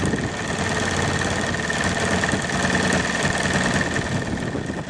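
RC model airplane's motor running steadily, with a steady high whine over a noisy drone.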